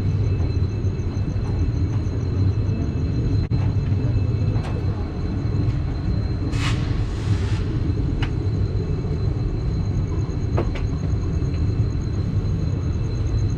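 Passenger train coach rumbling on the rails, heard from aboard: a steady low running noise, with a short hiss about six and a half seconds in and a few light clicks.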